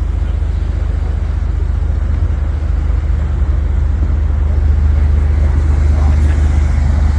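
Speedboat engine running steadily under way: a loud low drone that gets a little louder from about four seconds in.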